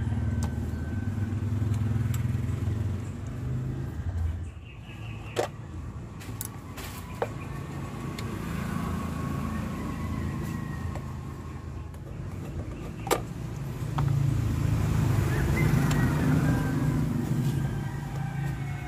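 Motor vehicles rumbling past, swelling near the end, with a few sharp clicks of something being handled.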